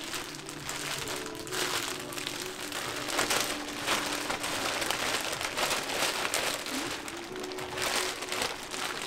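Hotteok frying in oil on a street-stall griddle: a crackling sizzle that surges about once a second, with music playing underneath.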